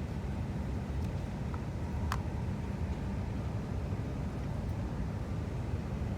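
Steady low rumble of an E6-series Komachi Shinkansen train running at speed, heard inside the passenger car. A single short click about two seconds in.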